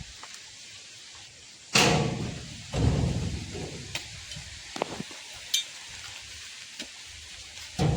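Two heavy thuds about a second apart, the first sharp and the second deeper, then a few lighter knocks: oil palm fruit bunches landing as they are thrown down during loading. A steady hiss sits underneath.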